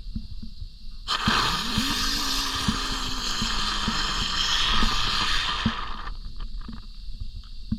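A small lit firework hissing as it throws sparks for about four and a half seconds, with a low whirring tone that rises then holds and scattered crackles, then stopping abruptly.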